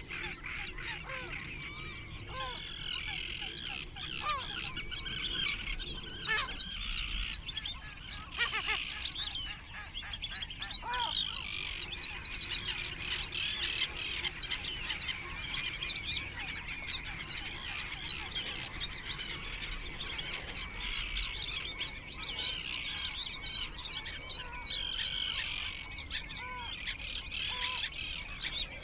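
A flock of birds calling all at once: a dense, unbroken chorus of many overlapping high chirps and calls, with occasional lower call notes.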